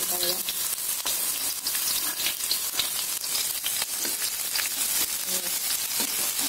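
Minced garlic sizzling and crackling in hot oil in a wok as the aromatics start to sauté, stirred around with a metal spatula.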